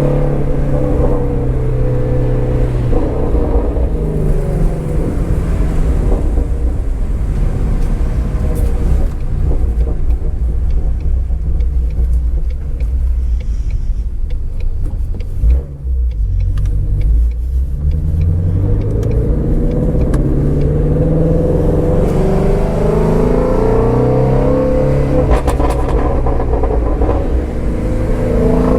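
2019 Shelby GT350R's 5.2-litre flat-plane-crank V8 under way. The revs fall steadily for about twelve seconds with faint exhaust crackles. There is a brief dip about halfway, then the revs climb again and hold high near the end.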